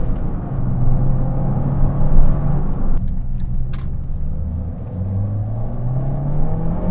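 Fiat 500 Abarth's turbocharged 1.4-litre four-cylinder, heard from inside the cabin while driving. The engine note drops with an upshift about half a second in, then rises steadily again as the car accelerates in the second half.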